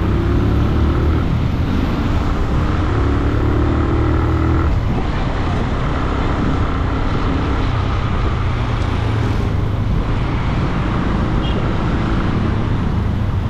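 Benelli 150i motorcycle's single-cylinder engine running under way through road traffic. Its pitch steps up and down a few times as the rider changes speed.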